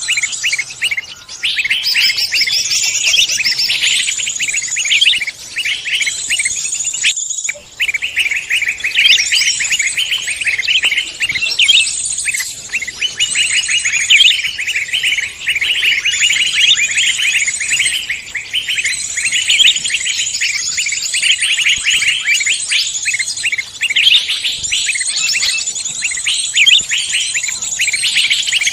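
A dense chorus of many songbirds chirping and trilling on top of one another without pause, with a brief break about seven seconds in.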